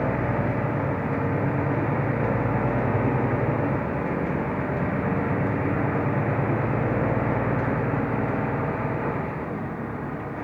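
Mercedes-Benz Türk O345 Conecto LF city bus under way, heard from inside the cabin: a steady engine drone with road noise, easing off and getting quieter about nine seconds in.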